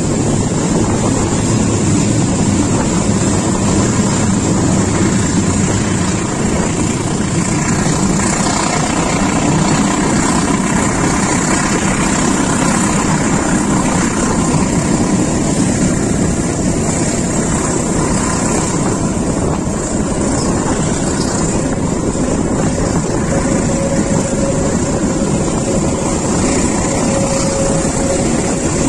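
Passenger train running along the track, heard from a carriage door: a loud, steady rumble of wheels on rails and the moving coaches, with rushing air.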